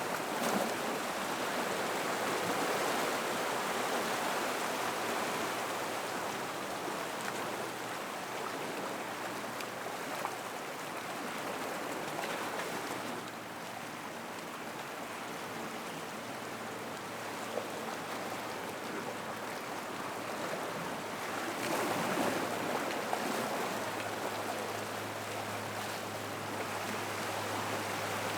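Gentle ocean water washing over rocks and into a rock pool, a steady rush that swells and eases in slow surges, strongest at the start and again about three-quarters of the way through. A faint low steady hum comes in near the end.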